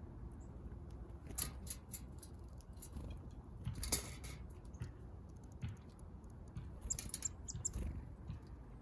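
Small backyard birds pecking at seed: scattered light taps and clicks, with a few brief high chirps about seven seconds in.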